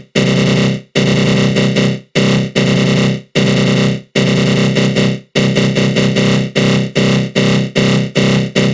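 Synthesized 'attack growl' sound effect: a dense, noisy synth tone through a flanger, sounding in loud repeated bursts that cut off sharply. The bursts last about a second each at first, then from a little past the middle become shorter and quicker, about two a second.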